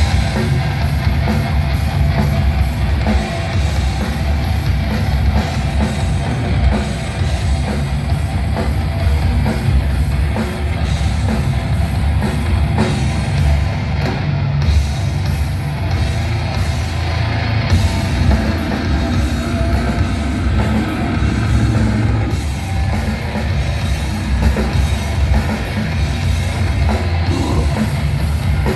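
Live death metal band playing hard: very low, heavily distorted guitars and bass over fast, dense drumming, with no vocals. It starts at full force at once as the song kicks in.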